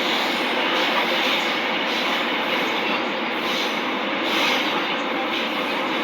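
KORAIL VVVF-inverter electric train running at a steady speed, with an even rushing noise of wheels on rail and running gear.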